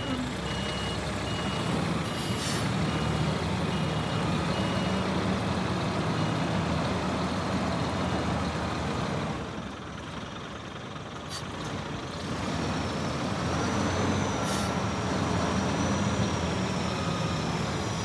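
Scania R480 hook-lift truck's diesel engine running, with its reversing alarm beeping for the first five seconds or so. Short hisses of air, typical of the air brakes, come a few times.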